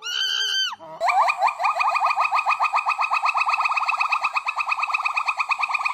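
An animal calling: one short pitched call, then, about a second in, a long rapid trill of short rising notes, more than ten a second, that carries on to the end.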